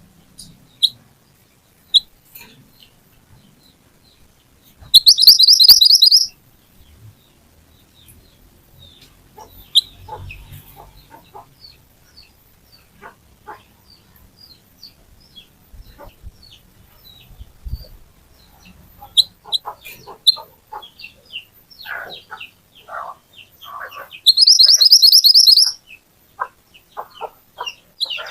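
Mantenan (kuniran) songbird singing in lure-call style: scattered short sharp chirps, broken twice by a loud, fast trill of rapidly repeated high notes lasting over a second.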